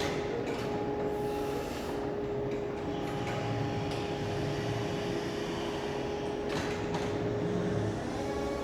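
Steady machine hum with a held whine, with a few brief clatters.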